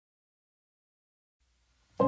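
Near silence: digital silence, then a faint hiss just before the music begins.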